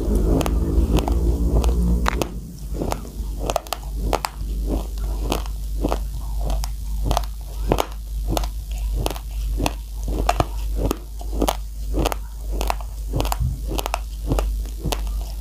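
Raw rice grains crunched between the teeth in close-up chewing, a steady run of sharp crunches about two a second. Music plays over the first two seconds and then stops.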